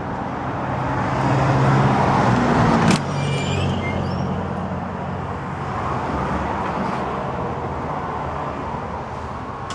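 A motor vehicle's engine running with a traffic rumble. It swells over the first three seconds, drops suddenly with a click about three seconds in, then runs on steadily, with a few short high squeaks just after the drop.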